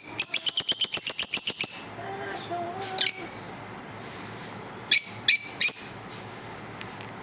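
Lovebirds calling: a rapid run of sharp, high chirps, about eight a second, lasting nearly two seconds, then a single call about three seconds in and a quick cluster of three calls near the five-second mark.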